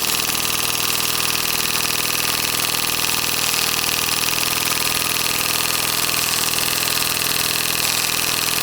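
Tiny governor-controlled model steam engine running on steam at a steady speed, with fast, even exhaust beats and steam hiss. Its governor, which changes the valve timing rather than throttling the steam, is holding the speed constant as boiler pressure builds.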